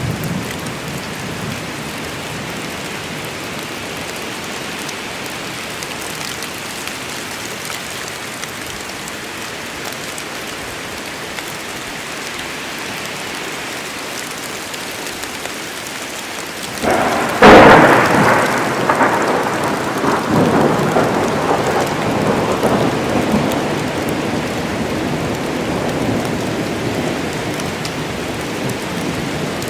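Steady rain falling, with a sharp thunderclap a little past halfway that rolls on and slowly fades over the next several seconds.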